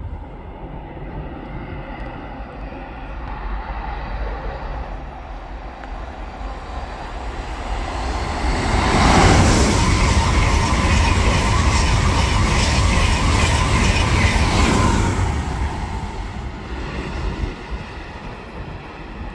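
ICE high-speed train passing through a station: a rushing noise that builds as it approaches, is loudest for about six seconds as the train goes by, then fades away.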